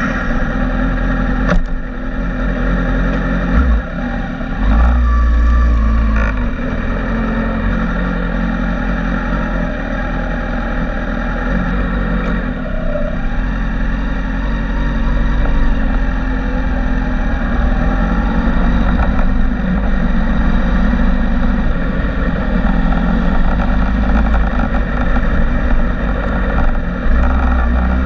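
Motorcycle engine running close to the microphone, idling steadily and then pulling away at low speed down a pit lane.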